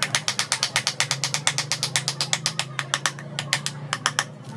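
A rapid run of sharp mechanical clicks, about nine or ten a second, that starts abruptly and stops about four seconds in.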